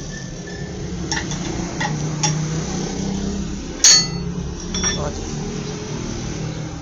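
Tyre-repair work: a few sharp metallic knocks and clinks from tools, the loudest a ringing strike about four seconds in, over a steady low hum.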